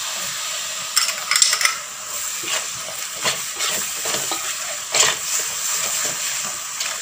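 Masala frying in oil in a metal pot, sizzling steadily as cashew paste is poured in and stirred through. A metal spatula scrapes and clinks against the pot several times, most sharply about a second in and again near five seconds.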